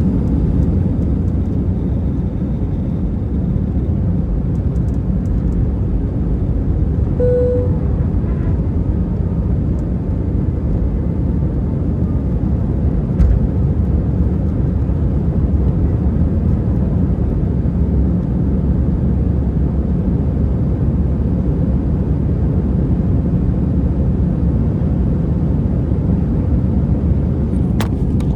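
Steady low rumble of jet airliner cabin noise from the engines and airflow. A short single tone sounds about seven seconds in, and a faint knock about thirteen seconds in.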